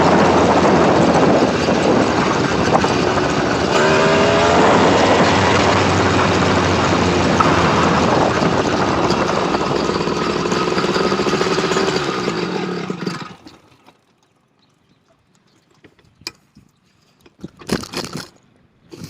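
Motorized bicycle engine running under way, its pitch rising and falling about four seconds in. About thirteen seconds in the noise fades to near quiet, and a few short knocks follow near the end.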